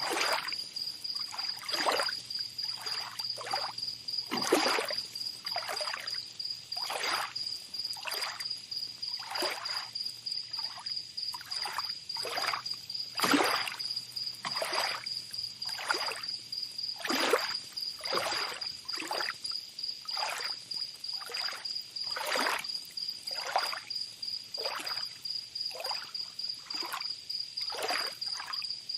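Tropical beach ambience: small waves lapping about once a second, over a steady high-pitched insect trill.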